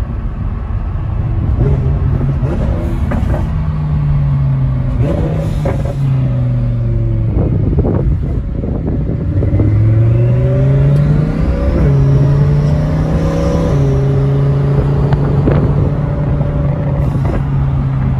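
Twin-turbocharged Lamborghini Huracán V10 with a straight-pipe exhaust, heard from inside the cabin while driving. The engine note holds steady in stretches and rises, then drops back at the gear changes several times, with the longest climb about ten seconds in, followed by an upshift.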